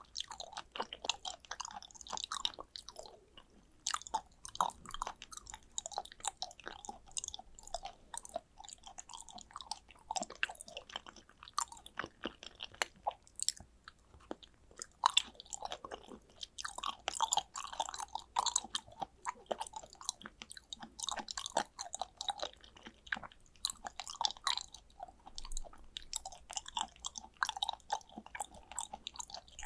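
Close-miked chewing of raw tuna sashimi, with soft wet smacking and irregular clicks of the mouth and teeth.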